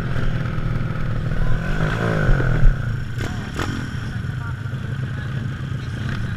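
Motocross motorcycle engines revving and running, the pitch rising and falling over the first few seconds, then settling into a steadier drone. Two sharp knocks about halfway through.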